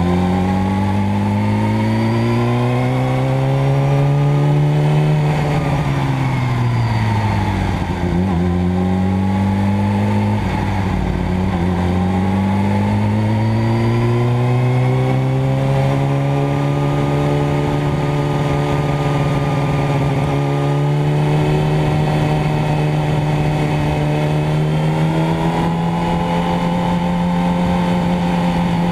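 Motorcycle engine running under way, its pitch climbing over the first few seconds, dropping away, then rising again and settling into a steady drone for the second half.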